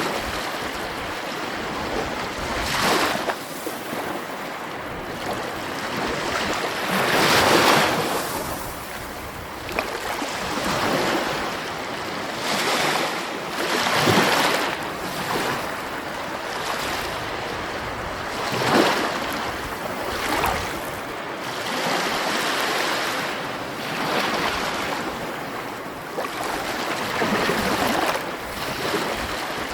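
Sea waves washing ashore: a continuous rushing surf that swells louder as a wave breaks, about every four to six seconds.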